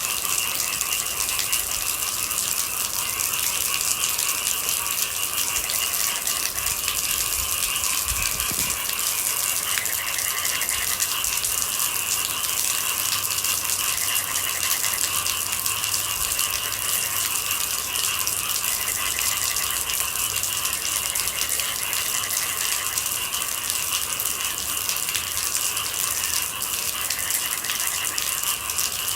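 Steady rain pattering densely on a hard surface: a fast, even patter of drops with no let-up.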